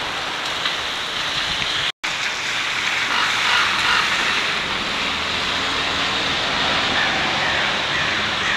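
Steady rain falling on pavement and leaves, a constant hiss, with a momentary dropout to silence about two seconds in.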